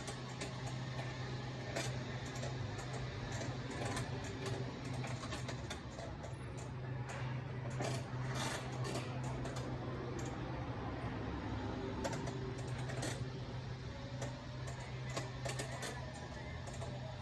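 Retail store ambience: a steady low hum with irregular light clicks and taps scattered through it.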